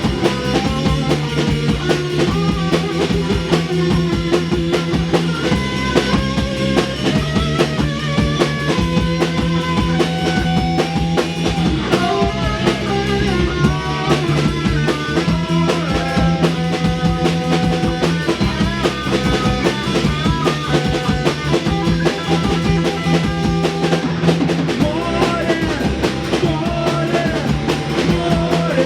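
A rock band playing an instrumental passage: a drum kit keeps the beat under guitar, with sustained low notes and a melodic lead line moving above them.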